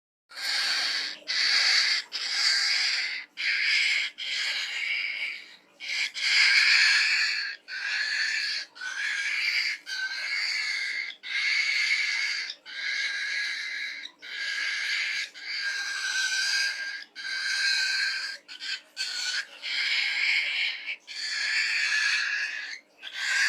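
Cockatiel giving a long run of harsh, pig-like calls, each about a second long with short breaks between, starting just after a moment of silence.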